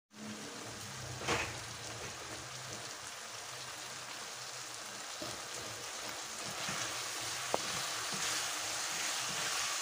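Sweet and sour pork sizzling in a nonstick pan: a steady frying hiss that grows a little louder in the second half. Two light clicks, one about a second in and a sharper one near the end.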